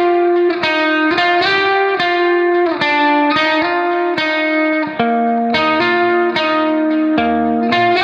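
Background music: a plucked guitar melody, single notes struck about twice a second, each ringing and fading.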